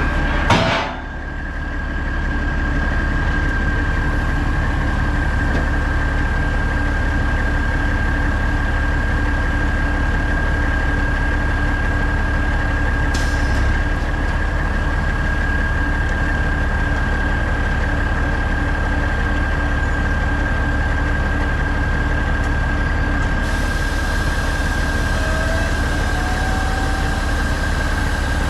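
Heavy diesel truck engine idling steadily, with a steady high-pitched whine over it. A sharp metallic knock about half a second in is the loudest moment, and there is a lighter click about halfway through.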